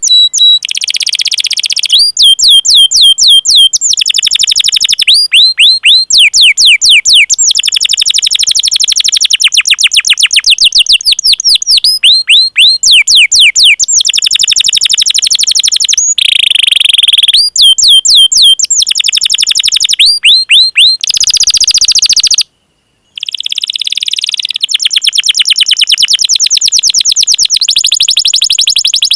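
Domestic canary in full song, singing long runs of rapid repeated chirps (cuit cuit) and rolling trills, one fast phrase after another. The sound drops out briefly about two-thirds of the way through.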